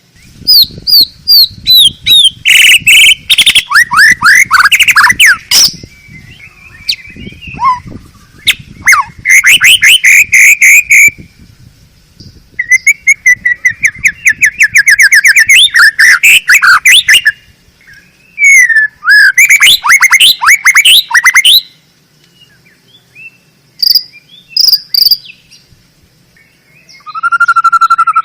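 Male white-rumped shama (murai batu, Medan strain) singing: loud phrases of rapid, varied whistled notes, each a few seconds long, broken by short pauses.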